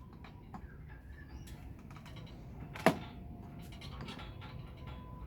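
Small clicks and light knocks of a native bee hive box lid being worked loose with hand tools, with one sharp knock about three seconds in.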